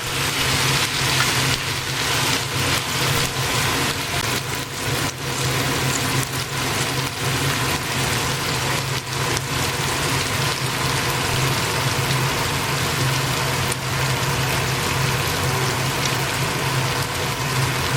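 Hot oil sizzling and crackling as food fries in a pan, with a steady low hum underneath.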